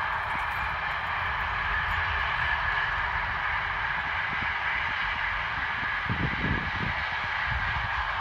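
Distant container freight train rolling past: a steady rolling roar of wagon wheels on the rails, with a low rumble beneath and a brief extra low rumble about six seconds in.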